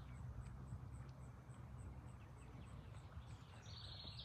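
A low, steady rumble, with a bird's high, rapid trill lasting about a second starting near the end.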